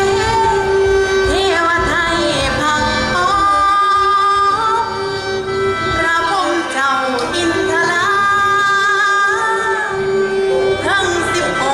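Isan lam-style folk music from a pong lang band, a singer's voice sliding and bending over a steady held drone note.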